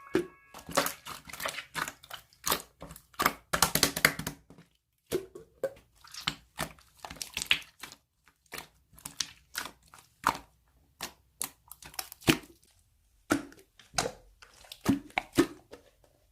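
Slime (액괴) being squished and pressed by hand, giving irregular crackling and popping clicks, close together in places with short pauses between.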